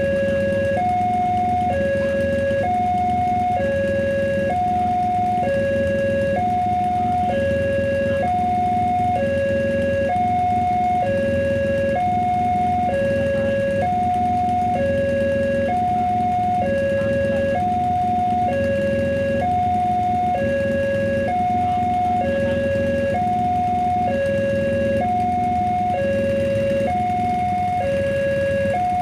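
Railway level crossing warning alarm sounding continuously, an electronic two-tone signal that alternates between a lower and a higher tone about once a second. Under it runs a steady low rumble.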